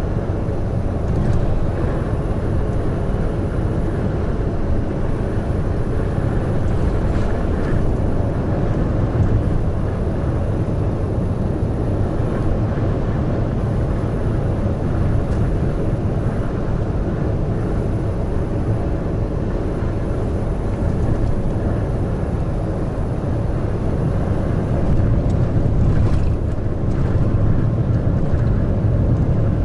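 Large truck travelling at expressway speed: a steady engine drone and road noise.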